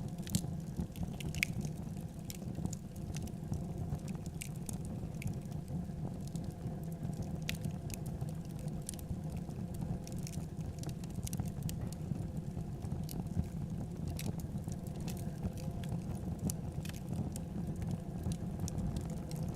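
Wood fire in a fireplace crackling: a steady low rumble of burning, with frequent irregular sharp pops and snaps.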